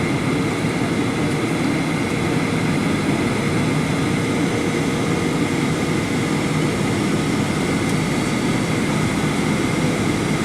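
Steady jet airliner cabin noise in a Boeing 737-800: the CFM56 engines and airflow running evenly as a low rumble, with a steady high whine and a fainter mid hum over it.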